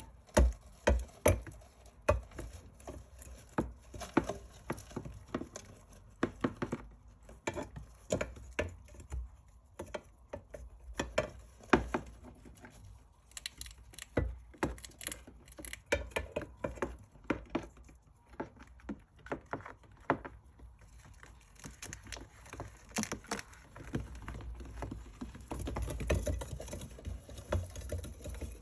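Hamsters scuffling over a piece of dried bread: irregular small clicks, taps and scratches, thickening into denser scratching near the end.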